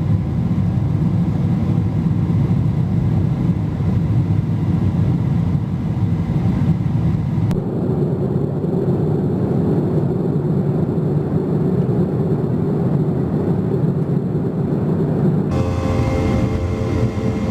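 Airliner cabin noise at a window seat: a steady low rumble of jet engines and airflow. It changes abruptly twice as one flight's recording cuts to another, and the last part has a steady engine whine over the rumble.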